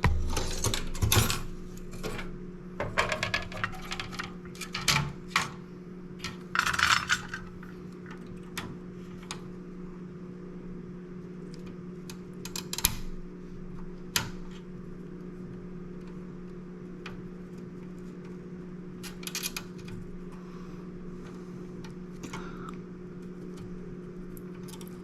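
Small metal tools clicking and clattering against a circuit board while a diode is removed from it, busiest in the first several seconds and then a few single sharp clicks, over a steady low electrical hum.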